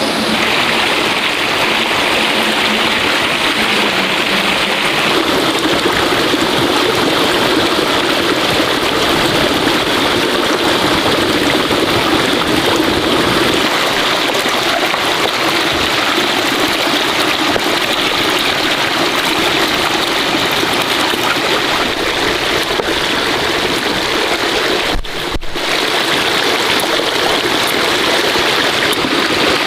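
Running water flowing steadily, with a brief drop in level a few seconds before the end.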